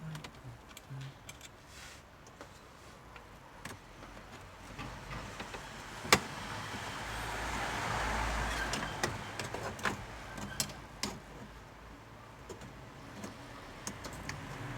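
Hand work on the plastic dashboard trim: scattered clicks and taps, a sharp click about six seconds in, then a few seconds of scraping and rubbing, with more clicks near the end.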